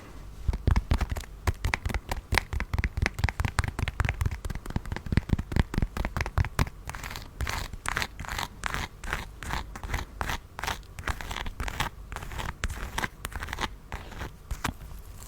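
Close-miked crunching and crinkling of candy: a dense run of sharp crackles that thins to about three crackles a second in the second half.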